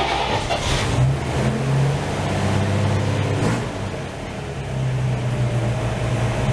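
1949 Chevrolet truck engine just after starting, running at a fast idle. It revs up briefly about a second in, eases off around four seconds, then picks up again near the end.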